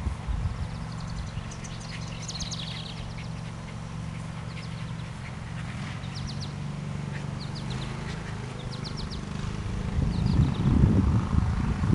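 Birds chirping in short quick series over a steady low hum, with a louder low rumble near the end.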